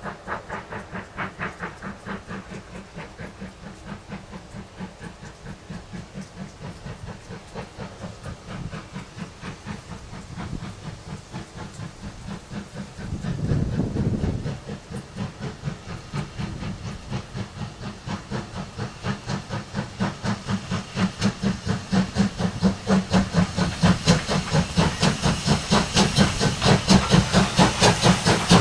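Steam locomotive working, its exhaust chuffing in a quick, even beat with steam hiss. There is a brief louder low rumble about halfway through, and the beats grow steadily louder toward the end as the engine draws closer.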